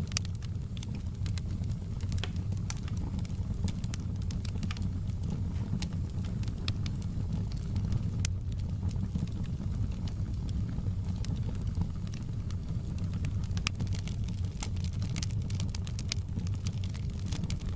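Wood fire crackling, with frequent sharp pops over a steady low rumble of the flames; the crackles come thicker near the end.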